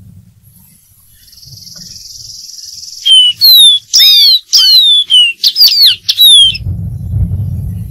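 Dark-throated seedeater singing: a quick run of about eight loud, clear whistled notes, each sliding downward, lasting about three and a half seconds. A thin, steady high buzz comes before the song, and a low rumble follows it.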